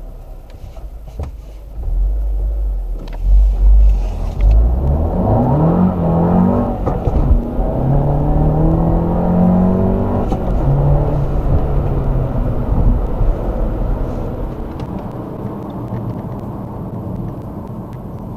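Car engine accelerating hard from a standstill for a 0-100 km/h run. The engine's pitch climbs through each gear and drops at gear changes about 7 and 10 seconds in, then holds steadier and gets quieter toward the end.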